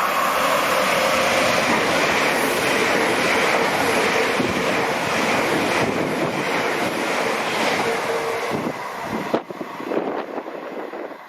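Train passing close by: a steady rush of wheel and air noise with a steady whine, which falls away about nine seconds in as it goes.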